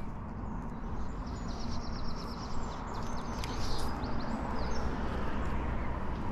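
Birds chirping over a steady low outdoor rumble. About a second and a half in, one bird gives a quick run of short high notes, about eight a second, and a few single chirps follow.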